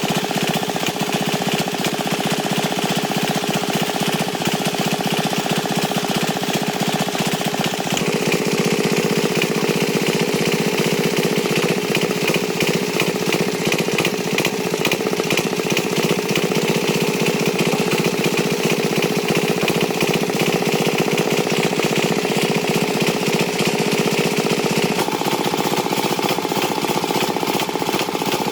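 Tractor engine running steadily with a fast, rattling beat. Its note shifts about eight seconds in and again near the end.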